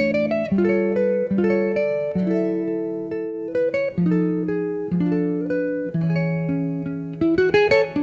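Background music of plucked guitar, its chords changing about once a second, with a quick run of notes near the end.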